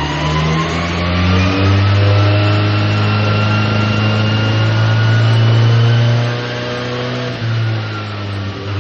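A 750 Formula race car's engine pulling under load on a rolling road, its revs climbing slowly with a rising whine alongside. About six seconds in the throttle eases off and the engine note drops.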